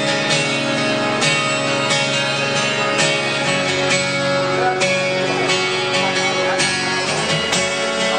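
Guitar playing the closing instrumental bars of a song, with plucked and strummed chords.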